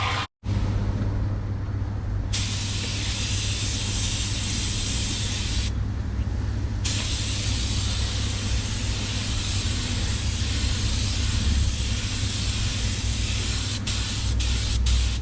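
Paint spray gun applying colour coat to a car bumper: a steady hiss that cuts off for about a second around the middle and then starts again, over a constant low rumble.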